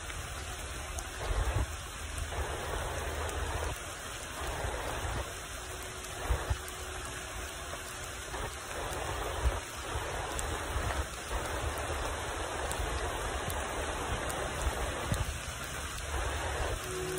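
Heavy rain pouring onto a pond and grass, a steady hiss, with occasional low bumps.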